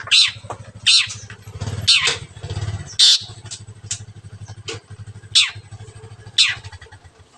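Long-tailed shrike (cendet) giving loud, sharp, downward-sweeping calls about once a second. Under the calls a low, pulsing engine hum runs and stops near the end.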